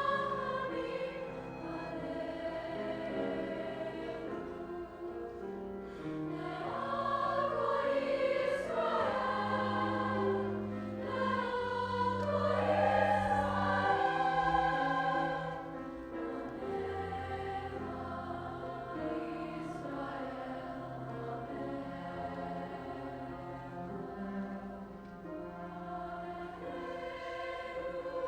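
High school choir singing in parts, with sustained notes, growing louder in the middle and easing back toward the end.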